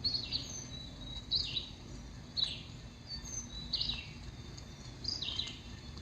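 A songbird repeating short down-slurred whistled notes, about one a second, over a steady low background rumble.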